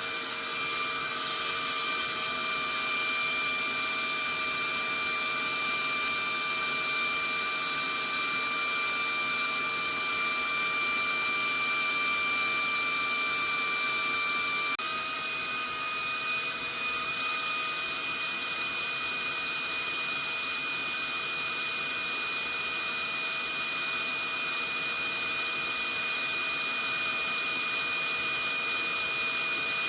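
Vacuum cleaner running steadily: rushing air with a high motor whine. About halfway through, the whine shifts slightly in pitch and the sound gets a little louder.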